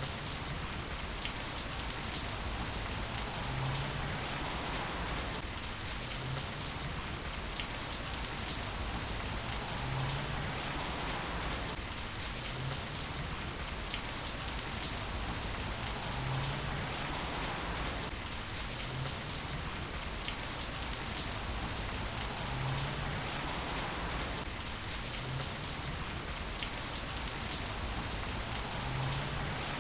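Heavy rain falling steadily, with single sharper drips standing out about every six seconds; the same pattern of drips repeats at that spacing, as a looped rain recording would.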